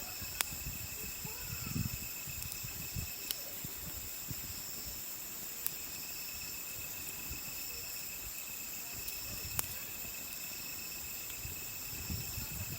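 Steady chirring of crickets and other autumn insects in several high pitches, with a wood campfire giving a few sharp pops and crackles.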